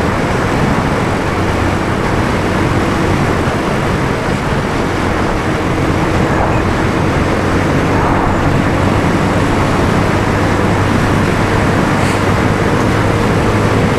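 Motorcycle engine running steadily while riding, with road and wind noise on the action camera's microphone.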